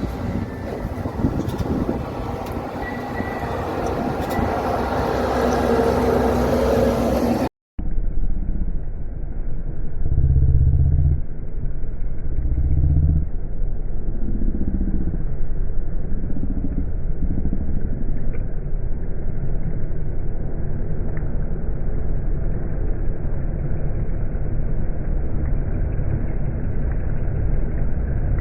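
Road traffic with heavy trucks passing. First a wide hiss of passing vehicles with a few steady tones. Then, after a sudden cut about seven seconds in, a duller low engine rumble that swells twice, around ten and thirteen seconds in.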